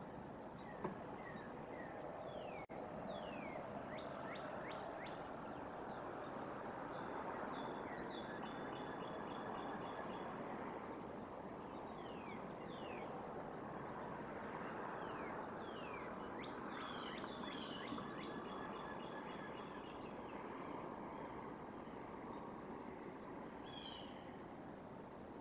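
Wild birds calling: many short downward-sliding chirps and several quick runs of repeated high notes, over a steady outdoor hiss.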